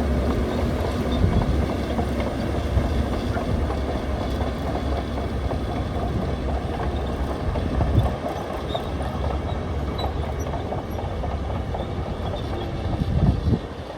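Heavy earthmoving machine running under load, its diesel engine rumbling steadily under continuous metallic clanking and rattling. There are louder surges about a second in, around eight seconds and near the end, and then the sound drops off.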